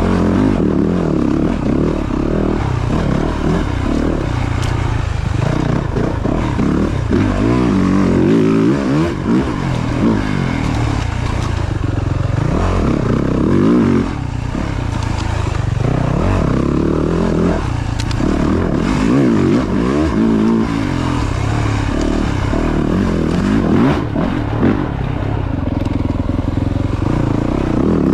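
Yamaha YZ450F dirt bike's four-stroke single-cylinder engine under way on a trail, its revs rising and falling over and over as the rider works the throttle. It eases off briefly about halfway through.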